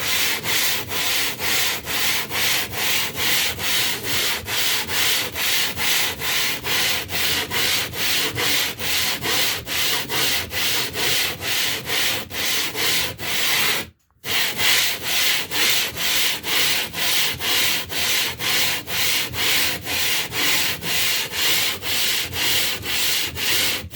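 Limestone block being lapped flat on a glass plate with wet coarse grinding powder: a gritty scraping slide back and forth, about two strokes a second, with one brief break about halfway.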